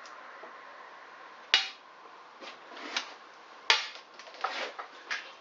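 Metal tools and parts clanking on a workbench: two sharp knocks about two seconds apart, with lighter clicks between and after them.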